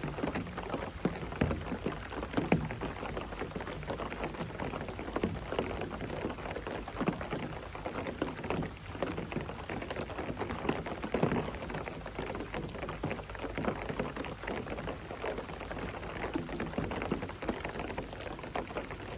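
Steady rain falling, with many separate drops landing close by at an irregular rate.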